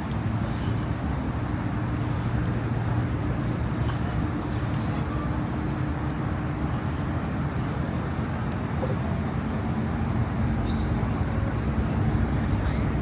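Steady street traffic noise, with a low, even engine hum running underneath.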